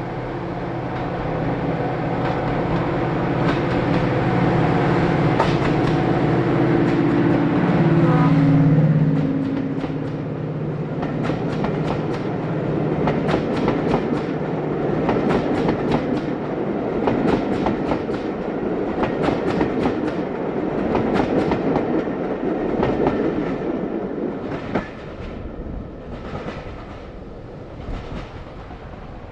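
Class 55 Deltic diesel locomotive passing: the drone of its twin Napier Deltic engines grows louder on approach and falls away as it passes about nine seconds in. The coaches then clatter over the rail joints and slowly fade.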